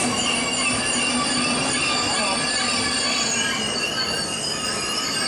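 German ICE high-speed train cars rolling past, with a steady high squeal of several overlapping tones from the wheels over the running rumble.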